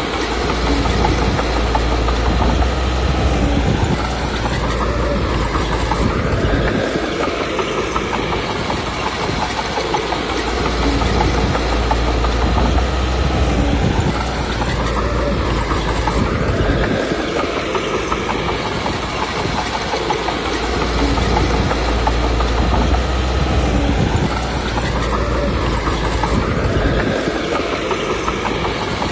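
Komatsu D21P bulldozer's diesel engine working under load, its pitch rising and falling in a repeating cycle about three times as the dozer pushes and backs off, with the clatter of its steel tracks.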